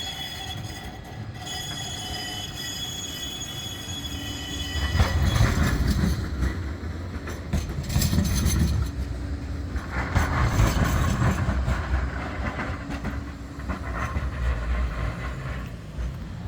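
A Bombardier Flexity 2 tram running past on the tramway, with a high steady whine over the first few seconds, then a louder rumble of wheels on rail that surges several times from about five seconds in.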